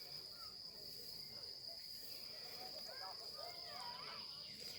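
Insects, likely crickets, keeping up a steady, unbroken high-pitched trill. Faint sliding calls sound beneath it, busiest around three to four seconds in.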